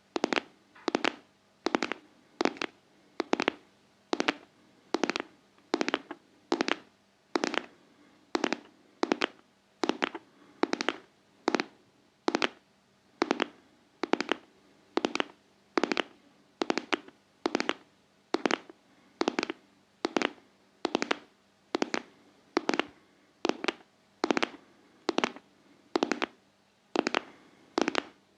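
ASMR tapping in a steady heartbeat rhythm: pairs of quick, sharp taps, a little under one pair a second.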